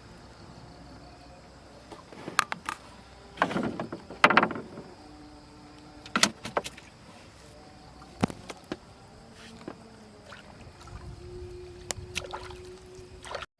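Scattered knocks and clatters on a small wooden fishing boat, with two louder splashing swishes early on, as fishing gear and the catch are handled in the boat.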